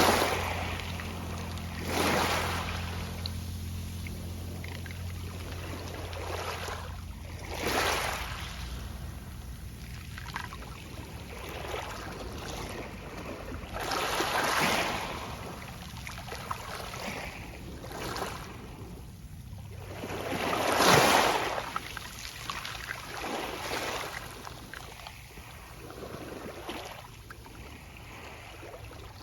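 Small waves breaking on a pebble beach every few seconds, each wash followed by the soft rattle of pebbles as the water draws back. The biggest wave breaks about two-thirds of the way through.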